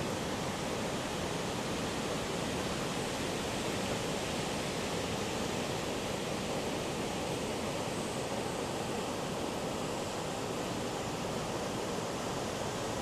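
Heavy ocean surf: big waves, swollen by an approaching typhoon, breaking and rushing ashore in a steady roar.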